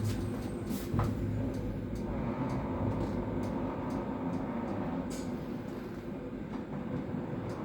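Passenger train heard from inside the carriage: a steady low rumble of the train running on the rails, with a few sharp clicks.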